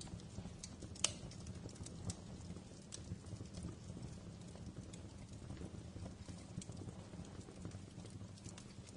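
Wood fire crackling in a fireplace: a steady low rumble of the flames with irregular sharp pops and snaps, the loudest pop about a second in.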